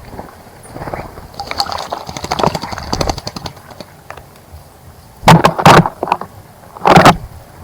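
A bird bathing in a birdbath: quick fluttering splashes through the first half, then three loud, sudden splashes in the second half.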